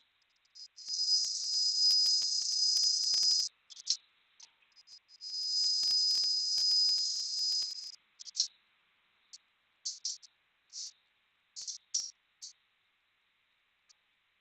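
CNC automatic sewing machine running in two spells of about three seconds each, a high-pitched whine, with short clicks and blips between and after them.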